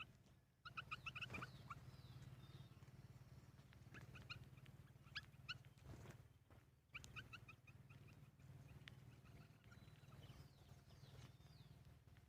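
Faint bird chirps: short quick runs of high notes every second or two, over a low steady hum.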